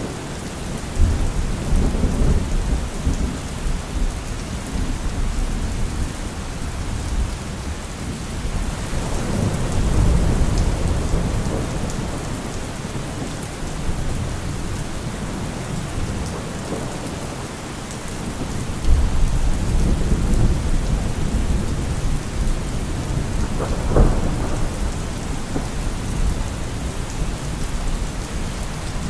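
Steady rain with rolling thunder: low rumbles swell up about a second in, around nine seconds in and again near nineteen seconds, with a sharper thunderclap about twenty-four seconds in.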